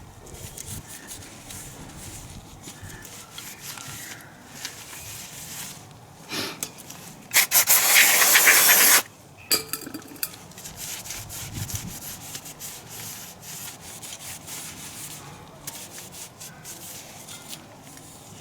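Hand work on scooter parts: scraping and rubbing with small clicks and knocks. A loud hiss cuts in about seven seconds in and stops after about a second and a half.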